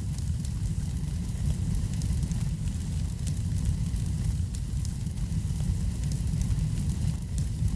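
Wood fire burning in a fireplace: a steady low rumble with scattered faint crackles.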